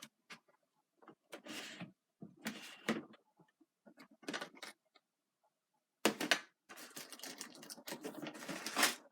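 Small plastic clicks and rattling of AAA batteries being fitted and swapped in a toy's battery compartment: scattered single clicks at first, then a denser stretch of clattering handling near the end.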